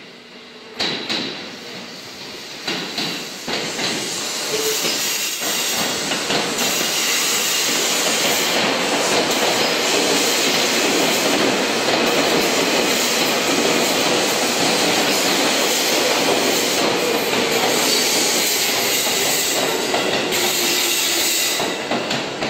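Seibu Railway 2000 series electric train running close by along the platform, its wheels clattering over the rail joints. A few sharp knocks come in the first seconds, then the running noise stays loud and steady, with a faint hum sinking slightly in pitch near the end before it fades.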